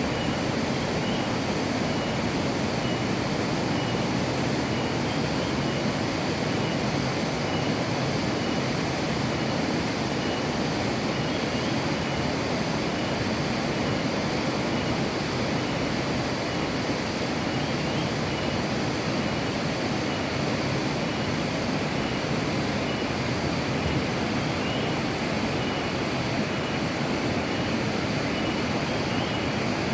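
A steady rushing noise that keeps on without a break, with a faint regular ticking high above it.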